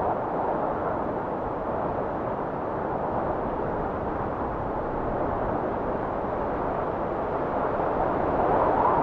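Blizzard wind blowing as a steady, low rushing noise. It swells near the end into a gust with a rising and falling whistle.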